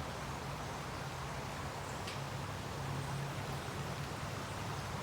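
Steady rain-like hiss of flowing water, rushing along below a bridge, with a steady low hum underneath.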